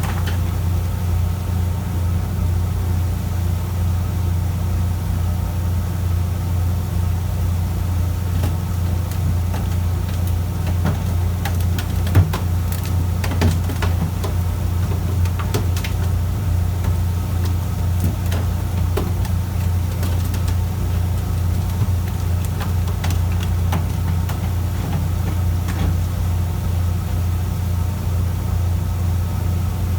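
Fishing boat's marine diesel engine running with a steady low drone, with a few faint knocks and clicks around the middle, the sharpest about twelve seconds in.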